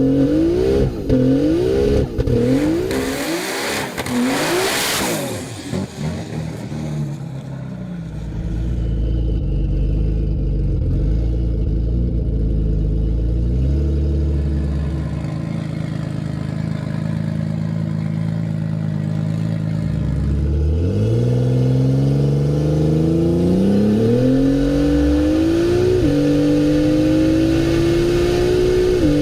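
Turbocharged Ford Barra 4.0-litre straight-six being blipped in quick rising-and-falling revs, with a loud hiss a few seconds in. It then runs steadily before revving up hard from about twenty seconds in, its pitch dropping sharply at a gear change and holding high near the end.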